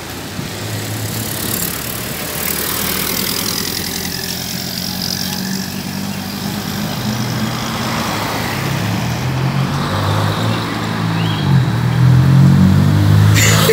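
A motor vehicle's engine running steadily amid street noise, growing louder near the end.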